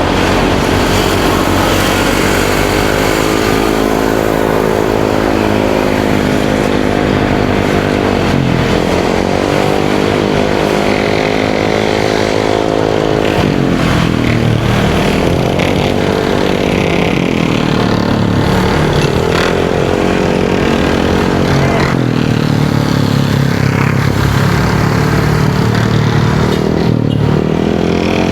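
Motorcycle engine pulling hard, its pitch rising and then dropping back about five times as the bike accelerates and eases off or changes gear, over wind and road noise.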